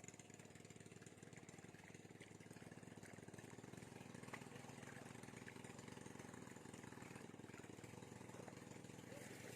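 A small engine running steadily and faintly, with an even rapid pulse.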